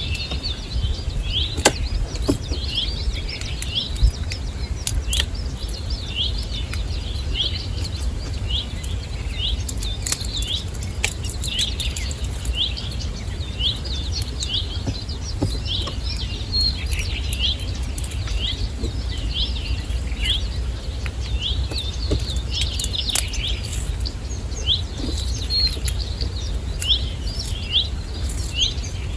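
A small bird chirping steadily, short rising chirps repeated about once a second, over a steady low rumble with scattered clicks.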